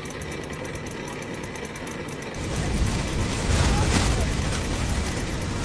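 A motor running steadily, with a deeper rumble swelling about two and a half seconds in and easing off near the end.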